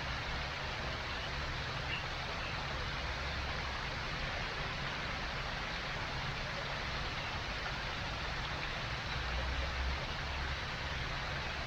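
Steady rushing background noise with an uneven low rumble under it, and no distinct events.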